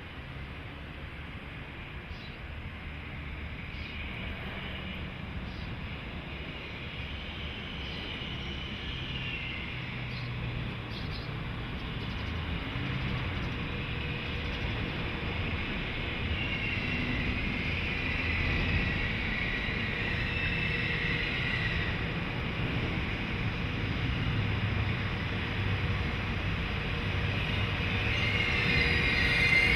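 Freight train hauled by an electric locomotive rolling closer, growing steadily louder, with high-pitched wheel squeal coming and going and strongest near the end.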